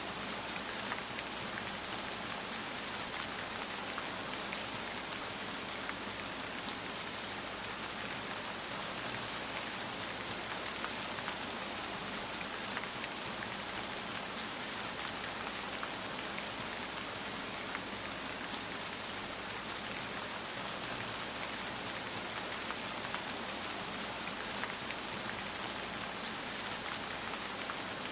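Steady rain falling, a constant hiss of drops with faint scattered patter on a surface.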